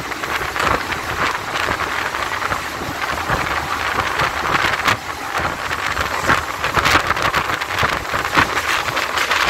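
Electric local train running at speed, heard from its open doorway: a steady rush of wind and running noise with wheels clattering over the track.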